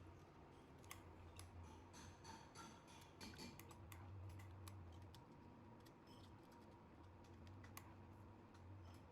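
Faint, irregular small clicks and short scrapes, several a second, over a low steady hum.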